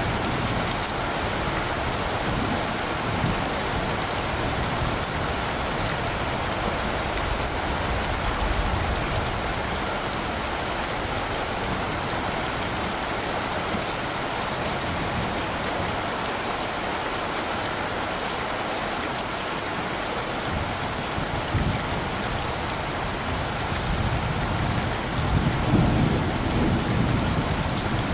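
Steady rain falling, with a low rumble of thunder rising about 25 seconds in and running on to the end.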